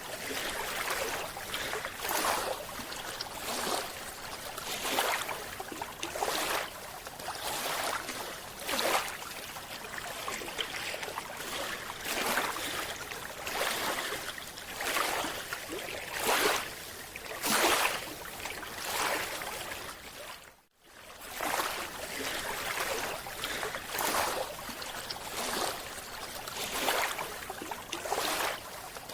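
Underwater water noise, a rushing hiss that swells and fades every second or two, with a brief dropout about two-thirds of the way through.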